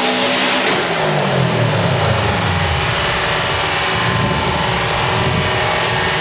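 Turbocharged Subaru STi flat-four on a dyno coming off a full pull: about a second in the throttle is released with a sudden drop in the high rushing noise. The revs fall steadily over about two seconds, then the engine settles into a low, uneven rumble.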